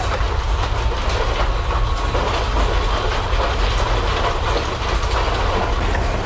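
A loud, continuous low rumble with constant rattling and clattering, typical of a building and its loose contents shaking in an earthquake.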